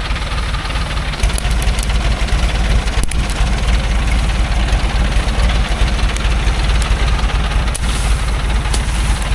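Engine of a small loaded logging truck running steadily with a deep, fast-pulsing rumble.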